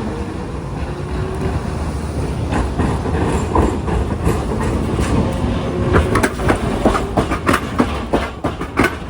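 Hiroshima Electric Railway tram running over the rails with a steady rumble. Its wheels start clacking over rail joints and points about two and a half seconds in, and from about six seconds the clacks come loud and regular, about three a second.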